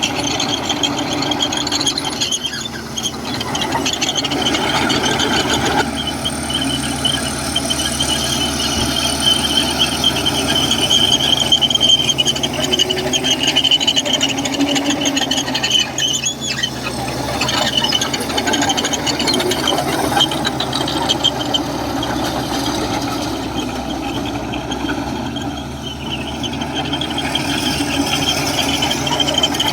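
Komatsu crawler bulldozer working, its diesel engine running steadily under a continuous high squeal from its steel tracks.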